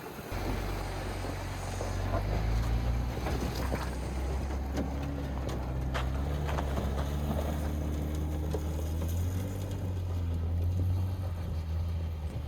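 A 4x4 vehicle's engine running close by, coming in just after the start, its pitch stepping up and down as it is driven slowly, with a few sharp clicks over it.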